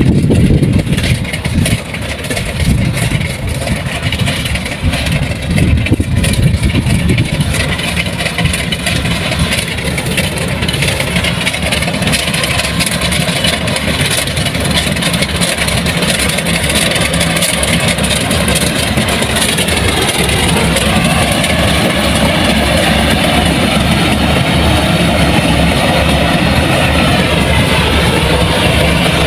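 Heavy diesel farm machine engine running steadily and loudly. Its pitch shifts briefly about two-thirds of the way through.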